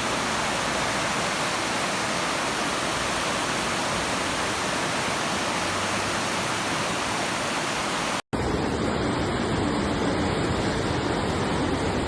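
Floodwater rushing in a swollen torrent, a steady, even rush of water. About eight seconds in it cuts abruptly to another stretch of rushing water that sounds duller.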